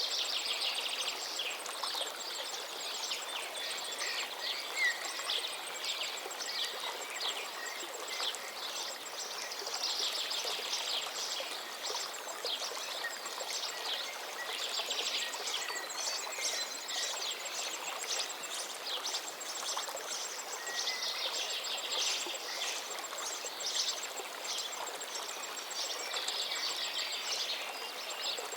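River water rushing and trickling steadily, with songbirds singing in repeated bursts of quick chirps and trills over it.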